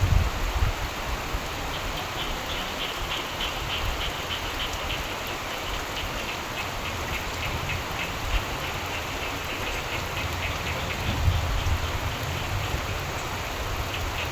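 Steady rain with frogs croaking in rapid pulsed trills from about two seconds in until about ten seconds in. Low rumbles of thunder come at the start and again near the end.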